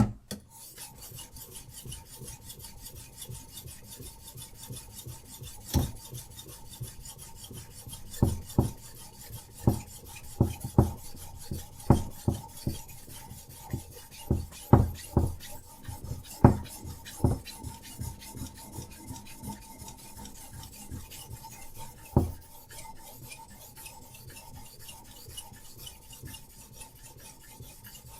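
Diamond sharpening stone on a Hapstone RS guided knife sharpener scraping back and forth along a knife blade's edge in quick, continuous strokes. Irregular knocks come through the middle stretch.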